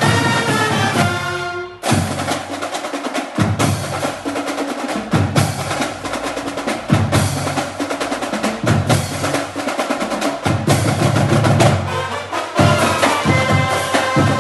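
Band drums playing: snare rolls with bass drum beats about every second and a half, with held wind-instrument notes at the start and again near the end.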